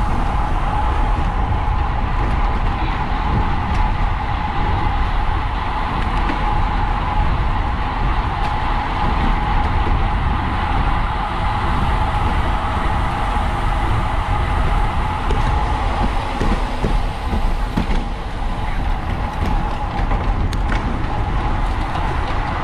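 Wind rushing over a bike-mounted camera's microphone while riding at race speed in a criterium pack, a steady low rumble with a constant whir above it.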